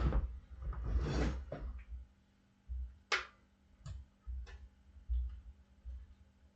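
A breathy rush of noise through the first second and a half, then a few separate sharp clicks and low knocks of hand work on a dirt bike tire and rim.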